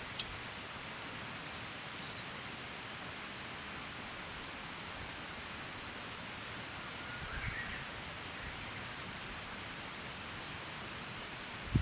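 Steady outdoor background hiss, with a sharp click just after the start and a soft low thump about seven and a half seconds in.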